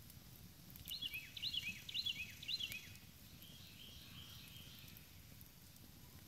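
Campfire burning with a low crackle and a few sharp pops, while a bird in the woods calls a quick falling phrase four times, about two a second, starting about a second in, followed by fainter chirping.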